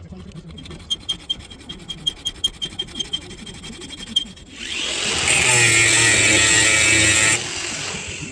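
Workshop tool sounds: a run of light, sharp ticks, about three or four a second, then a power tool whirring loudly for about three seconds before dropping away near the end.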